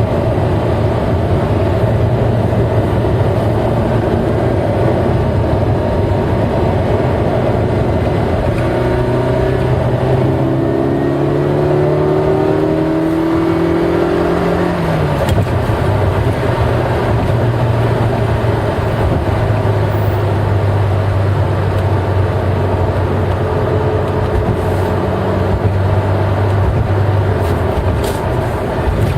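Eight-cylinder car engine running steadily while driving. Its pitch climbs for several seconds as the revs build, then drops suddenly about halfway through before settling back to a steady note.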